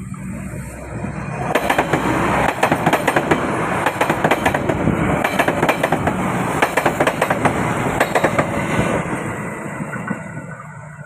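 A train passing close by on steel rails: a low rumble builds, then the wheels clatter over the rail joints in a quick run of clicks, loudest between about two and nine seconds in, and the sound fades away near the end.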